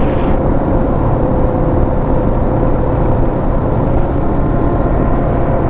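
Motorcycle engine running at a steady cruise, with a constant hum under heavy wind rush on the microphone.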